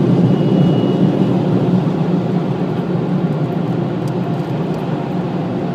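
Automatic car wash air dryers blowing on the car, heard from inside the cabin as a steady low rushing that slowly fades.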